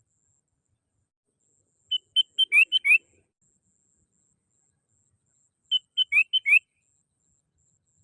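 Sooty-headed bulbul (kutilang) song from a lure recording. It comes as two short phrases of clear whistled notes about four seconds apart, each a few quick, even notes ending in two rising slurs.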